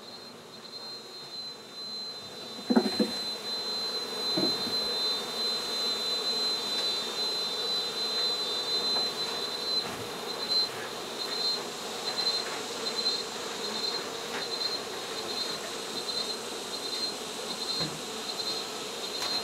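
Honey bee colony buzzing steadily as the exposed hive is worked, with a knock about three seconds in, after which the buzzing grows louder.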